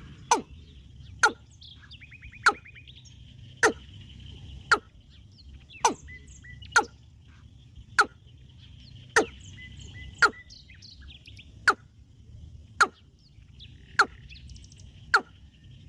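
Bird calling over and over, a sharp quick downward-sweeping note about once a second, over a steady high insect-like buzz and a few faint chirps.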